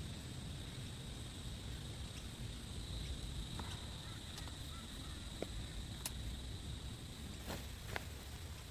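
Rain ambience: a steady low wind rumble with scattered single drops tapping sharply every second or so, over a thin steady high-pitched whine.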